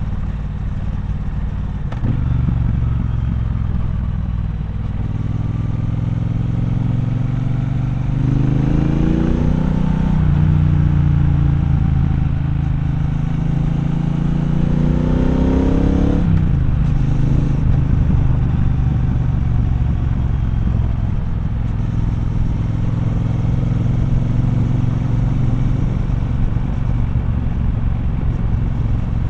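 Triumph Bonneville Bobber's 1200 cc parallel-twin engine heard from the rider's seat while riding. It runs steadily, then climbs in pitch under throttle about a third of the way in, dips briefly as it shifts, climbs again, and drops sharply as the throttle closes, settling back to steady low running.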